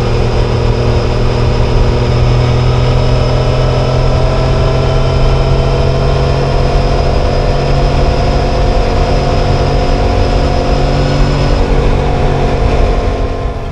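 Triumph Tiger Sport 660's three-cylinder engine running at steady cruising revs, its pitch creeping up slightly over the first several seconds and then holding level.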